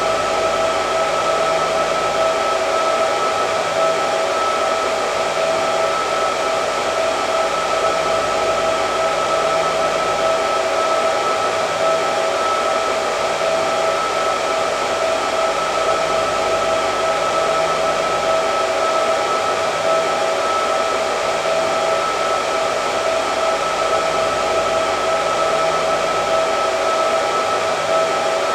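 Hair dryer running steadily: a constant rush of air with a steady whine in it.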